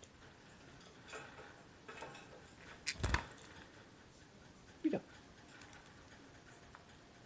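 Light taps and rustling from a pet parakeet moving about, with one sharp knock about three seconds in.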